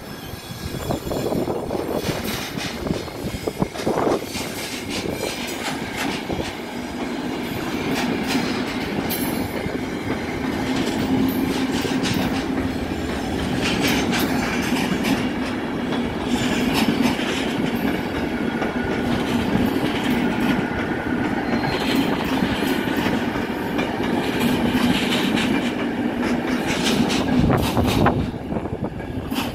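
Electric passenger trains passing at close range: a steady rumble with wheels clicking over rail joints, a steady motor hum, and a faint wheel squeal now and then.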